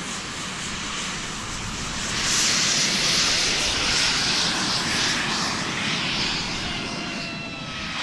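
Turbine-powered RC model jet flying past: a rushing jet noise swells about two seconds in, holds loudest for a few seconds, then fades, with a faint falling whine near the end.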